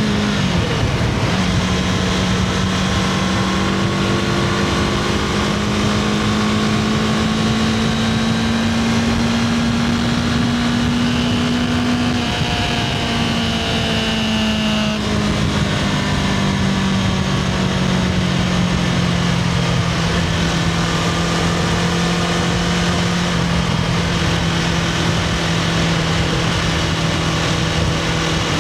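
Honda CBR500R's parallel-twin engine on the stock exhaust, ridden at steady mid revs with wind rush. The note drops quickly about a second in, then climbs slowly, eases back around halfway through, and holds steady.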